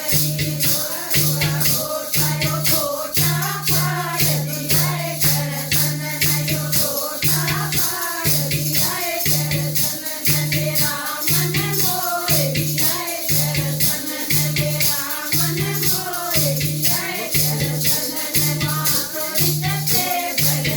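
Devotional bhajan music: a voice sings a melody over a pulsing low note and a fast, steady rattling percussion beat.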